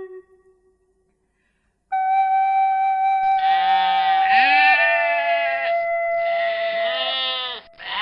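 Bleating from a goat or sheep: three long, wavering calls, over a steady flute tune that starts about two seconds in after a brief silence.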